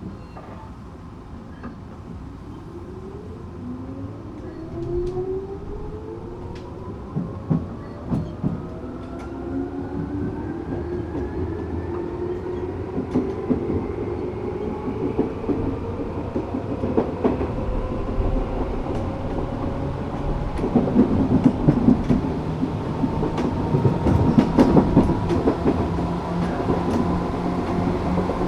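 Tokyu 8500 series electric train pulling away and gathering speed: the whine of its Toyo-built traction motors climbs steadily in pitch. Wheel clicks and knocks over the rails grow louder as the speed rises.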